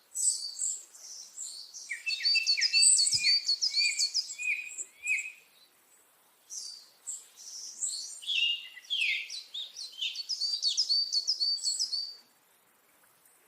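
Songbird singing a rapid series of sharp chirps and whistled notes, with a short pause about six seconds in, stopping about twelve seconds in.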